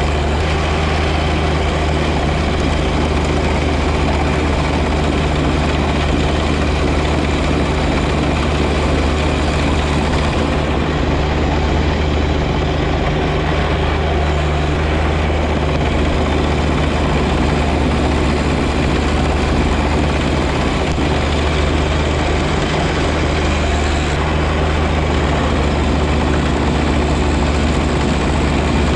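John Deere 1025R sub-compact tractor's three-cylinder diesel engine running steadily under load, with its front-mounted 54-inch snow blower running.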